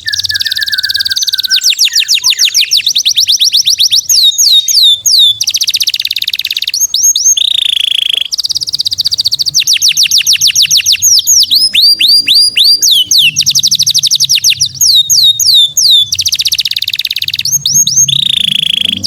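A songbird singing a loud, fast rapid-fire song. It runs long trills of quickly repeated, sharply sliding high notes, broken by short pauses and bursts of louder whistled notes.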